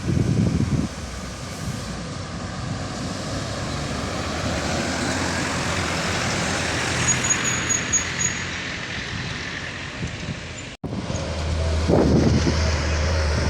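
Heavy trucks running through a bend, with engine rumble and road noise. The sound cuts off for a moment about eleven seconds in, then a steady low engine hum follows.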